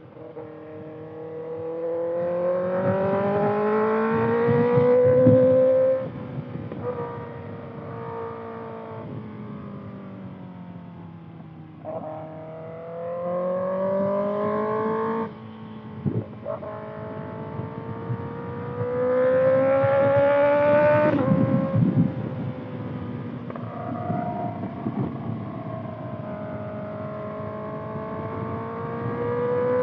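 2025 Kawasaki ZX6R's inline-four engine through a Voodoo Racing slip-on exhaust, pulling up through the revs under acceleration three times, each pull cutting off sharply as the throttle closes. The engine runs lower and quieter between pulls, then climbs slowly again near the end.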